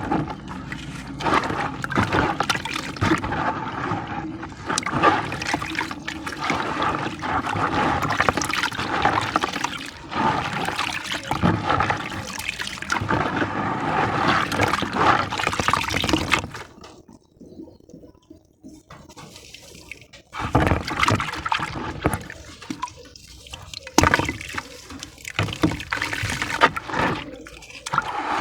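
Sand-and-cement discs crumbling and fizzing in water, a dense wet crackle with sloshing. It breaks off for a few seconds a little past halfway, then starts again.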